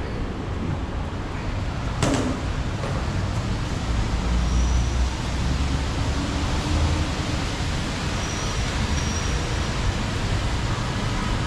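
Steady road traffic noise with the low rumble of passing vehicles, and a single sharp knock about two seconds in.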